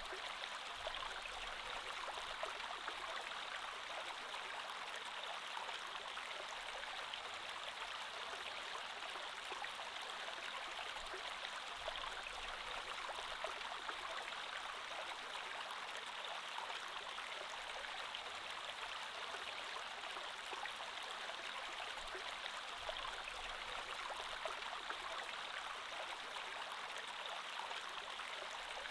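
Creek water flowing steadily over stones, an even rushing babble with no pauses.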